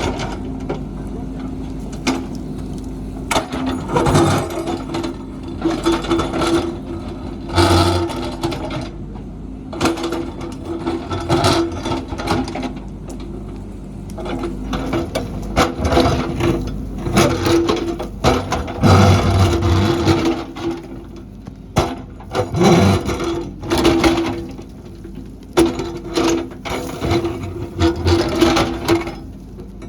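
JCB backhoe loader's diesel engine running under load, with repeated clanks and scrapes as the machine digs and works the ground.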